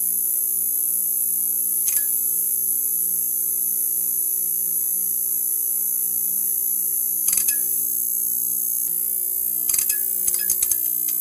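Neon sign buzzing: a steady electrical hum under a high hiss, with brief crackling clicks about two seconds in, around seven seconds, and a small cluster near the end.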